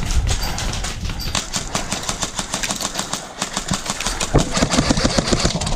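Airsoft guns firing rapid full-auto bursts, a fast rattle of clicks that grows denser in the second half.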